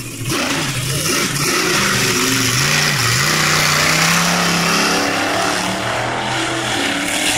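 Monster truck engine running loud and revving; its pitch climbs about three seconds in and holds higher for a couple of seconds.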